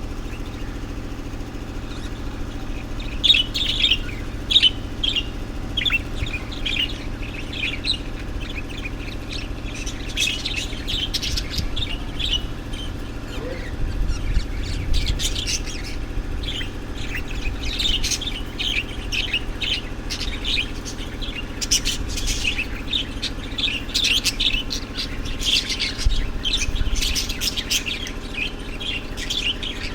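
Several small birds chirping and twittering in quick, overlapping bursts, beginning about three seconds in, over a steady low mechanical hum.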